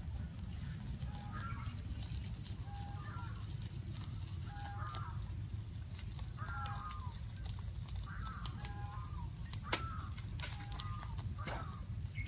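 A bird calling over and over, each call a short low note followed by a quick higher phrase, about every two seconds, over a steady low rumble. A few sharp clicks come near the end.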